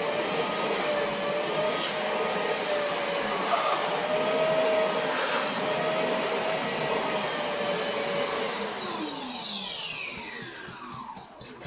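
Vacuum cleaner running steadily with a wavering whine, then switched off about nine seconds in, its whine falling in pitch as the motor winds down.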